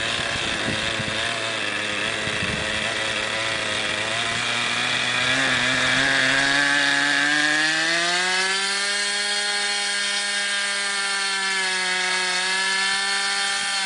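O.S. Max glow engine of an R/C model airplane running on the ground, its pitch rising smoothly about a third of the way in and then holding steady at high revs while the carburettor is tuned.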